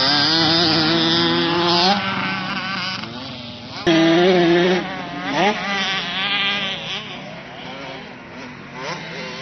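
Motocross bike engines revving up and down as riders go round the track, loudest about four seconds in, then fading to more distant engines.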